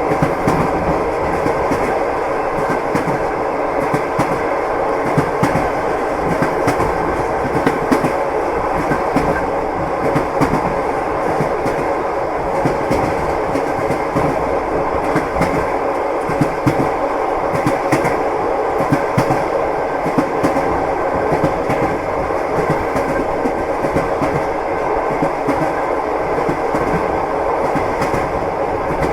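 Passenger train wheels clacking over the rail joints, with a steady running rumble and frequent short knocks throughout.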